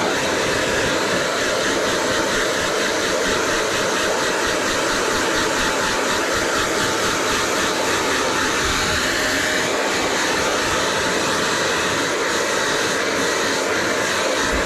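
Hand-held hair dryer running steadily, blowing air in a constant, even rush.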